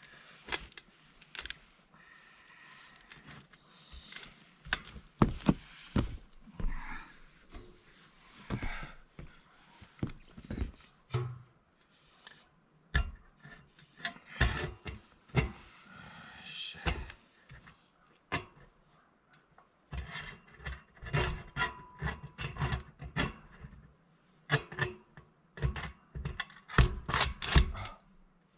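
Hand work on installation parts: irregular knocks, clicks and scraping as pieces are handled and pushed together. They come sparse at first and bunch into busy runs of rapid knocking about halfway through and again toward the end.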